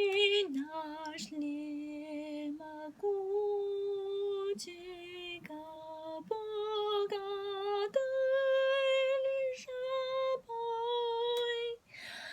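A high female voice singing a slow melody in held notes that step up and down in pitch, some with vibrato, with brief breaks between phrases.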